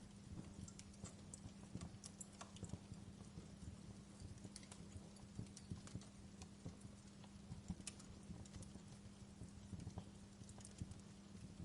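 Log fire crackling softly: irregular small pops and snaps, scattered unevenly, over a low steady hum.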